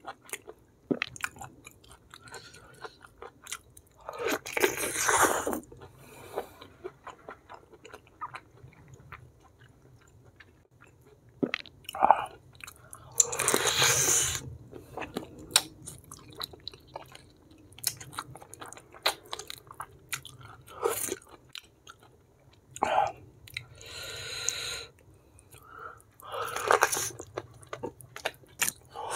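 A person chewing and biting food close to the microphone in a mukbang of beef-foot kikil with rice and sambal: steady wet chewing clicks and lip smacks. Four louder noisy bursts, each about a second long, break in, the first about four seconds in and the last near the end.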